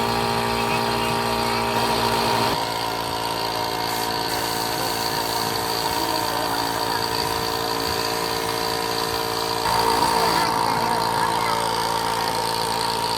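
A motor-driven machine running steadily, its tone shifting abruptly about two and a half seconds in and again about ten seconds in.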